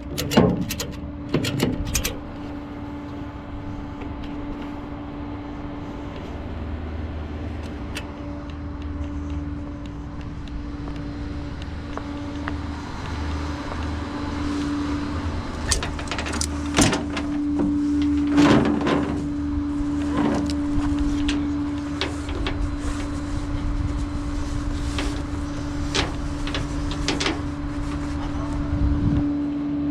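Tow truck's engine running with a steady hum and low rumble. There are quick ratcheting clicks in the first couple of seconds and scattered metal knocks and clatters later on.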